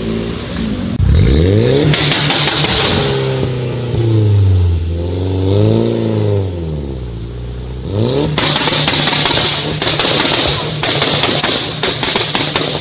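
Tuned car engine revved hard, its pitch climbing about a second in and rising and falling over several blips, then held at a steady pitch from about two-thirds of the way through with a rapid stream of exhaust pops and bangs.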